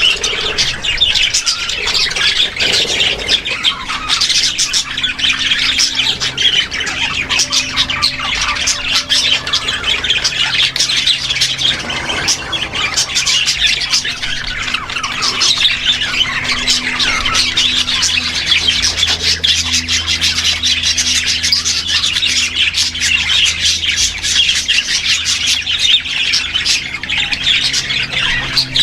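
A flock of small caged parrots, lovebirds among them, chattering and squawking together in a dense, unbroken chorus of shrill calls.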